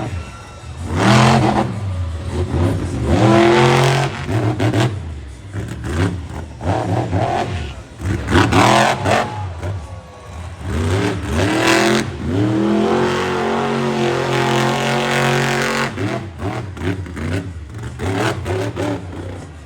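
Monster truck's supercharged V8 engine revving hard over and over, its pitch climbing and falling back with each burst of throttle. A few sharp bangs come in the second half.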